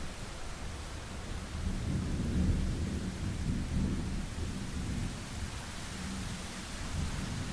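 Rolling thunder over steady heavy rain: a low rumble swells about a second and a half in, peaks for a couple of seconds, then slowly fades under the constant hiss of the rain.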